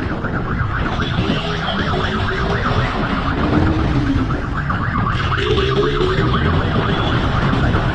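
Vehicles at speed: dense engine and road noise, with a siren wailing up and down.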